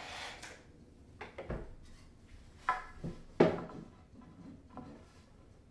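A drill runs and stops about half a second in, then a series of knocks and clunks of wooden boards being handled and fitted together into a frame, the loudest about three and a half seconds in.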